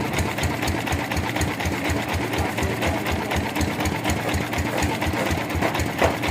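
Sawmill machinery running steadily, driven by an engine that thumps rapidly and evenly.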